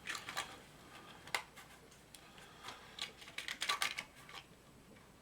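Light irregular clicks and taps of a plastic model locomotive body shell being handled and pressed into place, with a quick run of clicks about three and a half seconds in.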